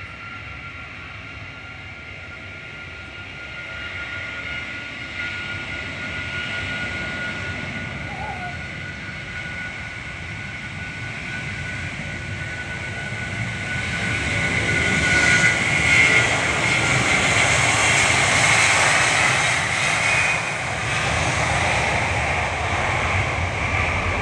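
Jet airliner's engines passing close by. A steady high whine is heard at first, then the engine noise builds to its loudest about two-thirds of the way through and stays loud.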